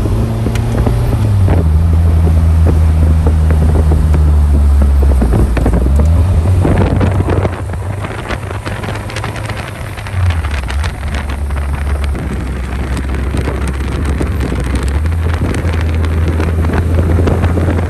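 Car engine running under way, its low note stepping down and back up a few times, with wind noise on the microphone.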